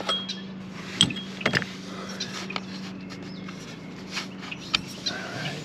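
Scattered light clicks and knocks of hands and tools working at a motorcycle's new oil filter, over a steady low hum.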